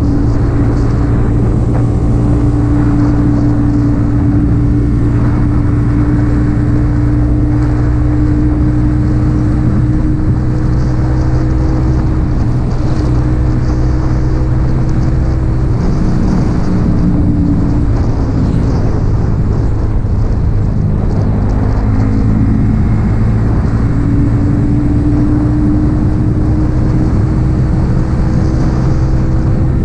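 Yamaha XSR 155's single-cylinder engine running through an aftermarket M4 exhaust while under way. The engine note holds steady, drops off about two-thirds of the way through as the revs fall, then climbs back up.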